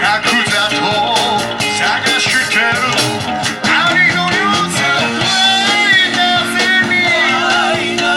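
Live rock-and-roll band playing a song, full band with guitar.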